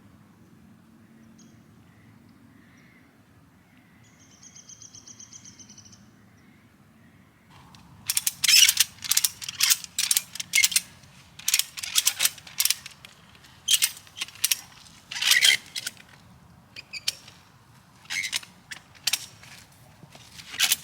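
Slackline ratchet tensioner being cranked: a series of loud, sharp ratcheting strokes starting about seven or eight seconds in, irregularly spaced as the line is tightened. Earlier, a brief rapid high buzzing is heard around four to six seconds in.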